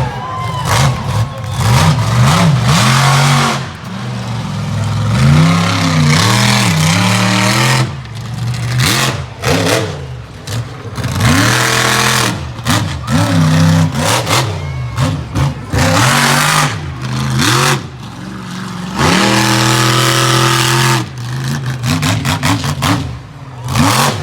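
Monster truck engine revving hard during a freestyle run, its pitch climbing and dropping again and again.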